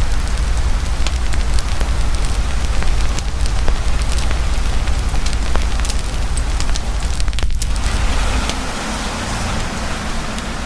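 Campfire crackling with scattered sharp pops, under heavy steady rain, with a low rumble beneath. The sound briefly thins about seven and a half seconds in.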